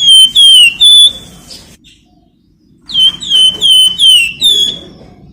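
A flamboyan songbird giving loud, high whistled calls, each note sliding down in pitch, in two runs: about four notes at the start and about six more from about three seconds in.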